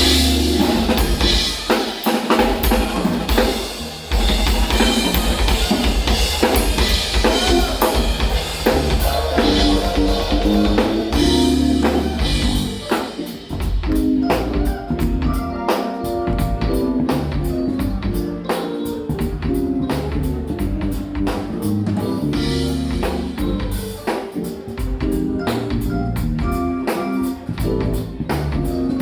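Live jazz-fusion trio of keyboards, electric bass and drum kit playing. Busy drumming with dense cymbals and kick drum dominates the first half. From about halfway, a repeating keyboard and bass riff comes forward over a steady hi-hat pattern.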